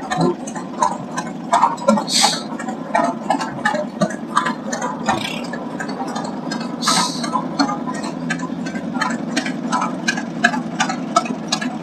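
1930 Allis-Chalmers Model U tractor engine running as it drives past, a steady rumble with a rapid, uneven clatter of ticks. Two brief hisses sound about two and seven seconds in.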